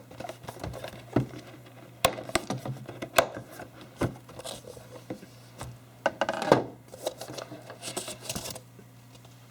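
Model-aircraft box and its plastic packaging being handled and opened: irregular clicks, scrapes and rustles, with a longer rustle about six seconds in.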